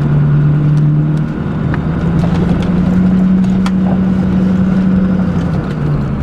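Bobcat skid-steer loader's diesel engine running steadily. Its pitch steps up about a second in and shifts again near the end as it works pushing snow.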